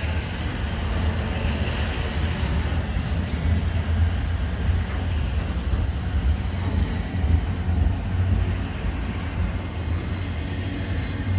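Double-stack container freight train passing at close range, its well cars' wheels running on the rails in a steady noise heaviest in the low end.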